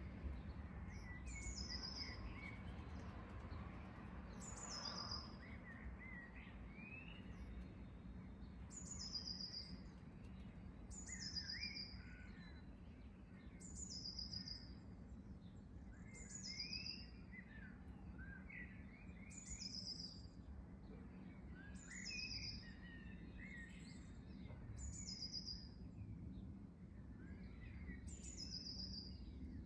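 Birds chirping: one bird repeats a short, high, falling call about every two seconds while others chirp lower in between, over a steady low background rumble.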